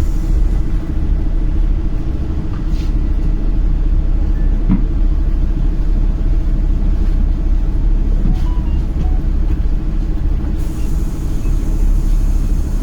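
KAvZ 4270-82 bus running on the road, heard from inside the cabin: a steady low rumble of engine and road noise, with a few light clicks and rattles.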